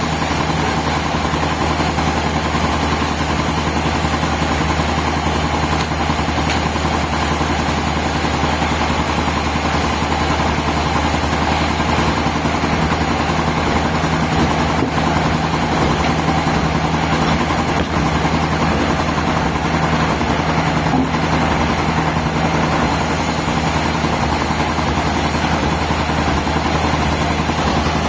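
Sawmill machinery running steadily with an even hum that holds the same pitch throughout.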